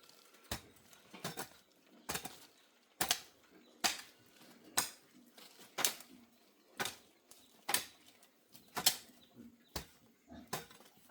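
A series of sharp knocks, roughly one a second, uneven in spacing and loudness.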